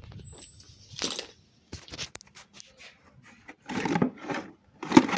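Metal hand tools being handled, clinking and rattling in a series of short, irregular clatters.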